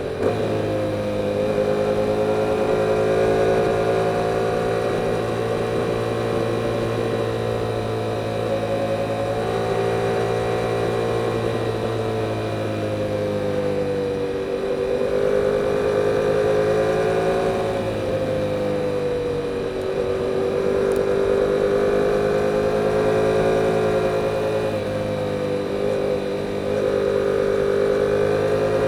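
A 2022 Yamaha YZF-R7's 689 cc parallel-twin engine, breathing through its stock exhaust, running under way at a fairly steady cruise. Its pitch sags and picks up again a few times as the throttle is eased and reopened.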